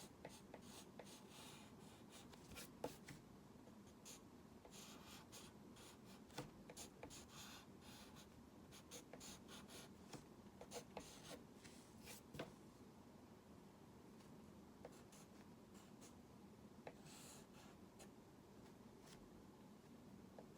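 Faint drawing sounds: short scratchy strokes and light ticks of a pen or stylus on a drawing surface, coming in irregular clusters.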